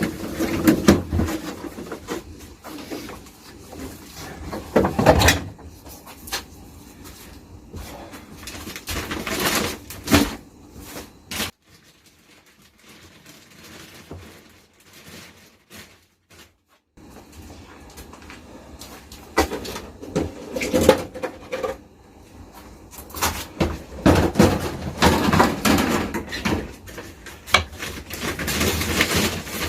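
Irregular knocks, bumps and clatter of things being handled and set down, with a quieter stretch about halfway through. No chainsaw is running.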